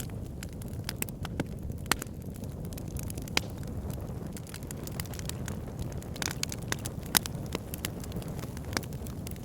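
Wood campfire burning, with irregular sharp crackles and pops over a steady low rush of the flames.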